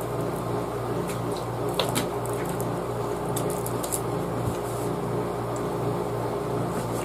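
Steady low electrical or mechanical hum of a running appliance, with a few faint light clicks.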